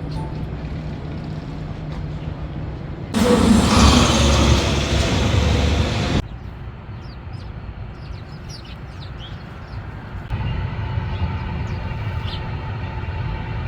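City street ambience with traffic rumble, in short spliced clips. A louder stretch of vehicle noise runs from about three seconds in and cuts off abruptly about three seconds later.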